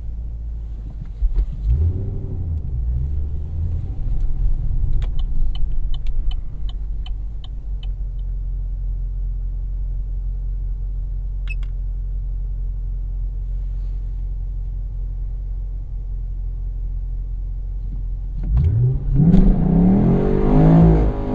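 Chevrolet SS's 6.2-litre V8 idling, heard inside the cabin, with a brief rev about two seconds in and a row of about eight light clicks a few seconds later. Near the end the revs climb sharply and loudly as the car is launched hard, spinning its rear tyres.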